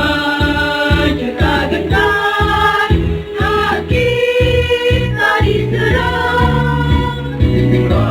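Mixed choir singing in sustained harmony over an accompaniment with a steady low beat.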